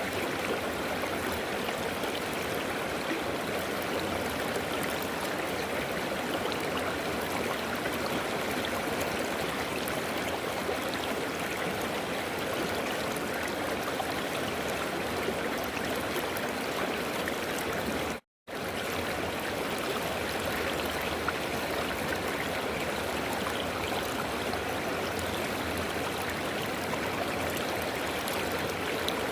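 River water flowing steadily over rocks, an even rushing and babbling. The sound drops out completely for a fraction of a second about two-thirds through, then resumes unchanged.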